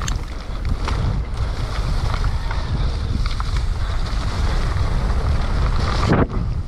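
Wind rushing over the rider's camera microphone during a mountain bike descent. Tyre noise and scattered short clicks and rattles come from the bike over rough, muddy ground.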